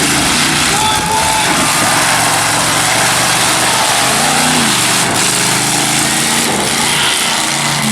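Monster truck engine revving hard and unevenly during an arena run, the pitch rising and falling with the throttle over a dense roar of noise.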